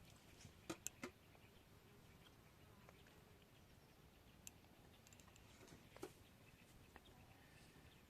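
Near silence with a few faint, sharp clicks: a quick cluster about a second in, then single ones near the middle and about six seconds in.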